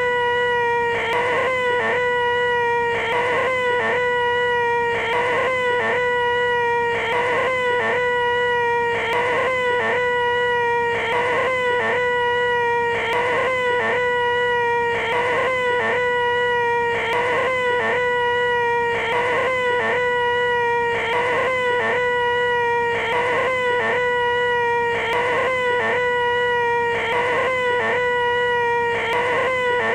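A man's voice making the 'most annoying sound in the world': a loud, nasal, high-pitched 'eeeh' screech held on one pitch. It is looped over and over, with a short break about once a second.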